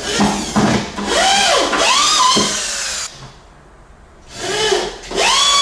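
Drill driving self-tapping screws through plywood into wooden joists. The motor runs in several short pulses, each rising and then falling in pitch as the trigger is squeezed and eased off, with a pause of about a second midway.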